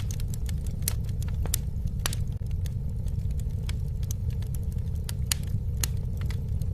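Campfire burning, with a steady low rumble of flames under frequent, irregular sharp crackles and pops of burning wood.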